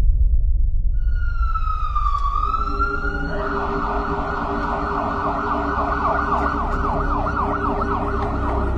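Emergency-vehicle siren starting about a second in with a slow falling-and-rising wail, then switching to a fast yelp of about three rising sweeps a second, over a low steady rumble.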